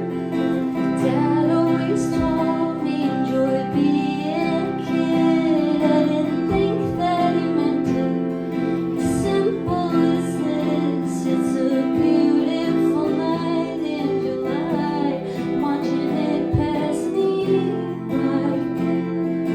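A woman singing a slow original song live, accompanied by acoustic guitar.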